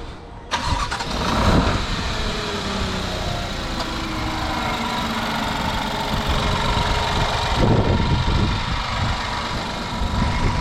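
Subaru WRX's turbocharged boxer four-cylinder cranking and catching about half a second in, flaring briefly on start-up, then settling into a steady idle.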